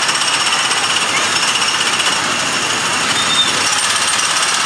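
Small petrol engines of the Tomorrowland Speedway ride cars running close by: a steady, fast mechanical rattle.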